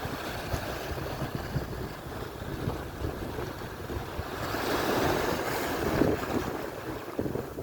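Atlantic surf: waves breaking and washing up the shore, one wave swelling to a peak of hiss a little past halfway and fading, with wind buffeting the microphone.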